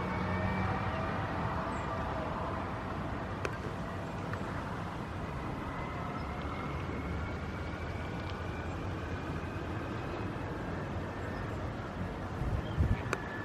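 Steady engine drone with faint whining tones that slowly drift upward in pitch. A few bumps of wind on the microphone come near the end.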